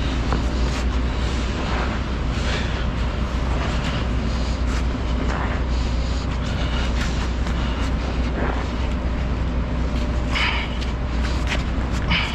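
Semi truck's diesel engine running with a steady low drone, with a few short higher-pitched hisses or rattles now and then.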